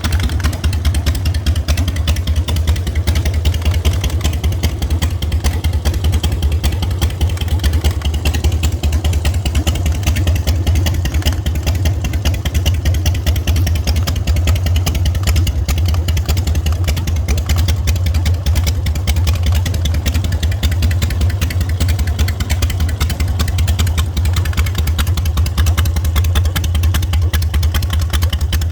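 Custom show motorcycle with two S&S engines running at a steady idle: a loud, deep, rapid, even exhaust pulse with no revving.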